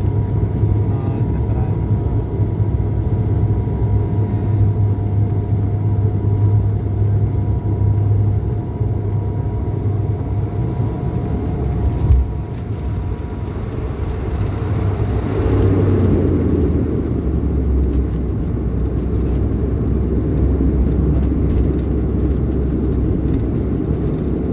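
Airplane landing: a steady low engine rumble with a faint whine, a single thump about halfway through, then a louder, broader rush of engine and air noise a few seconds later that holds to the end.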